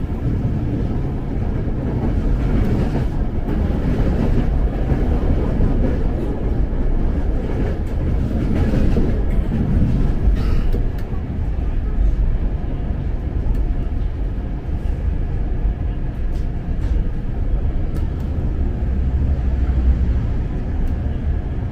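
Ex-Tokyo Metro 6000 series electric commuter train running, heard from inside the car: a steady low rumble with a few faint clicks.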